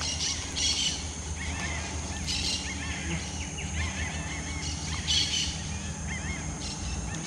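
Birds chirping in the surrounding forest, many small quick calls overlapping, with short higher bursts recurring every second or two.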